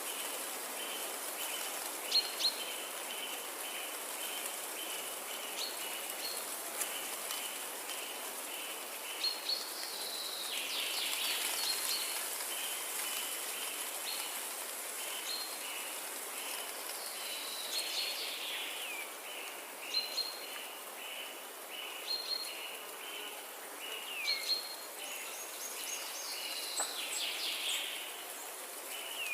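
Forest ambience: birds calling with short chirps and falling whistles over a rapidly repeated high note and a steady high hiss.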